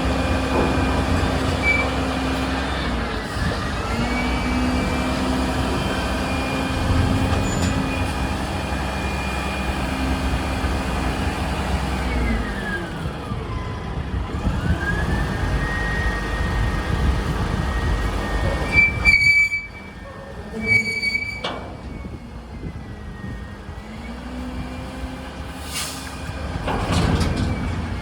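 Mack heavy truck's diesel engine running, its pitch dipping and rising again several times as the revs change. Two short sharp sounds come about two seconds apart past the middle, after which the engine is quieter.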